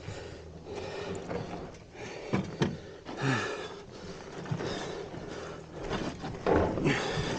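A man breathing hard and grunting with effort in uneven bursts while straining to free a stuck motorcycle.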